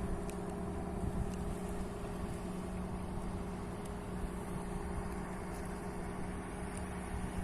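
Fishing boat's engine running steadily: an even, unchanging hum over a low rumble.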